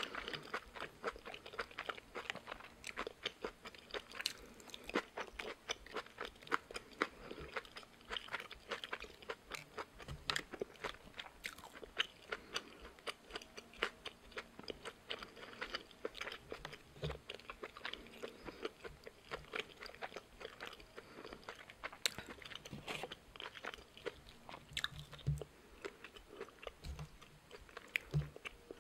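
Close-miked chewing and crunching of a Korean bossam wrap of boiled pork, raw napa cabbage and spicy radish kimchi, made up of many quick crisp crunches. A few low thumps come through now and then.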